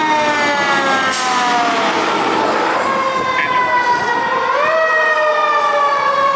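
Fire apparatus siren wailing: its pitch slides slowly down for the first few seconds, then rises sharply about four and a half seconds in, and starts rising again near the end. A rushing hiss rises under it about a second in and lasts a couple of seconds.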